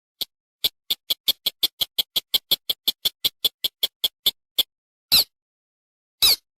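Recorded lure call of a rice-field rail or crake: a rapid series of short, high notes, about five a second, for some four seconds, followed by two longer calls about a second apart.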